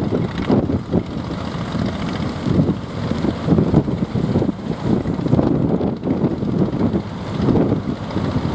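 Strong gusty wind buffeting the microphone in irregular rumbles, with a fishing boat's motor running underneath.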